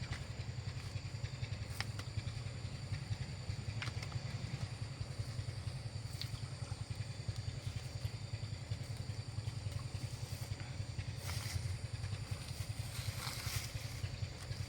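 Small engine running steadily at an even speed, a low, fast pulsing hum, with a few light clicks over it.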